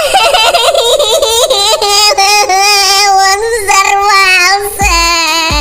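A high child-like voice singing a long wordless held note whose pitch wavers up and down. Near the end, a deep electronic bass boom comes in as a dubstep drop begins.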